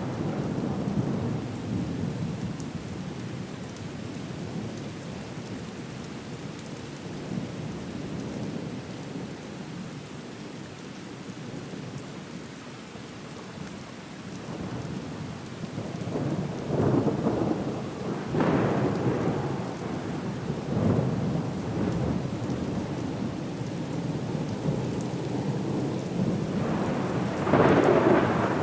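Thunderstorm: steady rain under low rolling thunder, which eases for a while and then builds into several louder rumbles, the loudest near the end.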